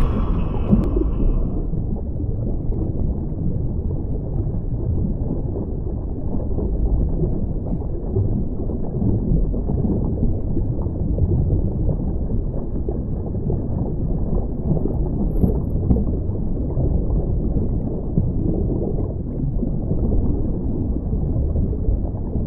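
Steady, muffled rush and rumble of water, with nothing above a low, dull range.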